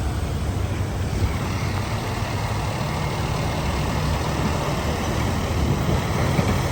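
Semi truck's diesel engine running with a steady low rumble amid road traffic noise.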